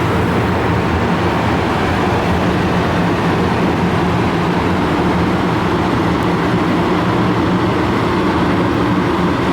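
Tour boat under way, its motor running with a steady hum and rumble.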